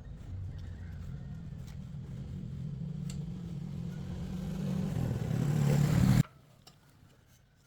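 A motor running with a low steady hum that grows louder, then cuts off abruptly about six seconds in.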